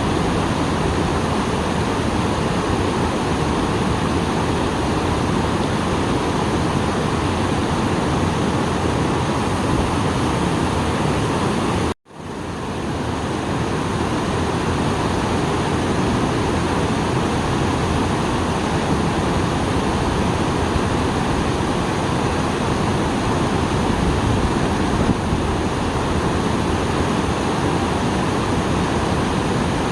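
Small waterfall rushing steadily, swollen after rain, a dense even wash of falling water. The sound cuts out for an instant about twelve seconds in and fades back up.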